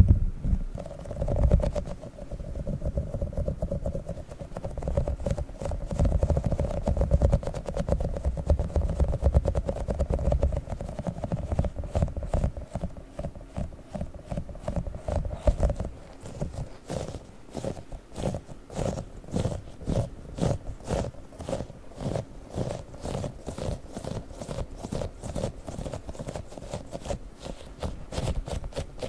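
Tiny sticky octopus toy being pressed and pulled up close to the microphone: quick, repeated sticky taps and peels, with low rubbing and handling rumble in the first part that gives way to a steady run of crisp sticky clicks.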